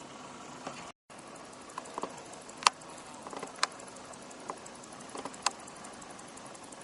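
Bow-winged grasshoppers among dry fallen leaves: a handful of sharp, irregularly spaced clicks and ticks, one much louder than the rest, over a faint background.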